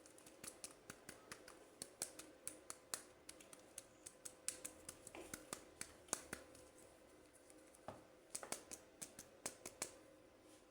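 Faint, irregular clicking and ticking of a plastic toy and its packaging being handled and opened, with a pause of about a second before the clicks resume.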